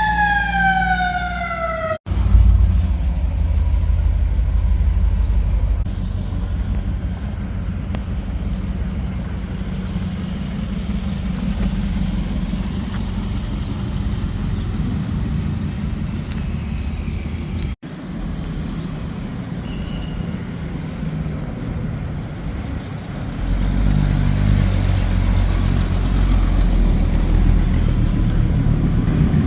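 A siren-like tone gliding down in pitch, cut off about two seconds in. Then a steady low rumble of vehicle engines running, which grows louder from about three-quarters of the way through.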